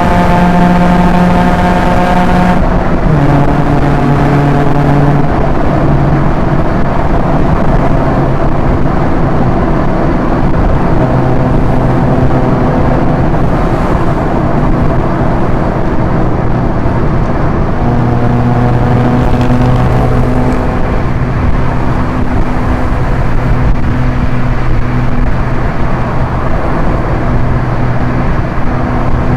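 Proton Inspira's 1.8-litre MIVEC four-cylinder engine pulling at expressway speed over steady road and wind noise. It shifts up about two and a half seconds in, where the engine note drops, and settles to a steady cruise later on.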